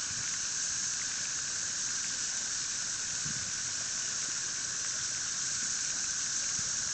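A steady, unbroken chorus of periodical cicadas droning in the trees, a continuous hiss-like buzz that does not rise or fall.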